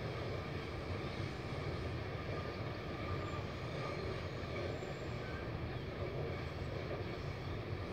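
Overnight sleeper passenger train rolling past on the rails, a steady low rumble of its coaches that neither swells nor fades.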